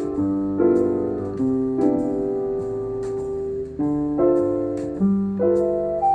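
Jazz keyboard comping with minor 9, dominant 13 and major 9 chord voicings plus bass roots, played over a play-along track with a synth keyboard melody and light drums. The chords change every half second to a second.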